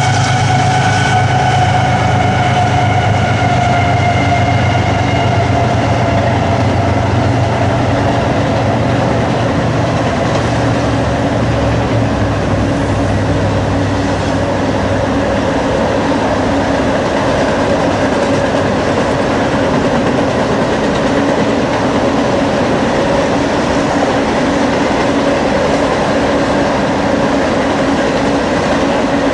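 A train passing close by. The locomotive's engine sound falls slightly in pitch and fades over the first dozen seconds, then the cars roll past with a steady rumble and clatter of wheels on rail.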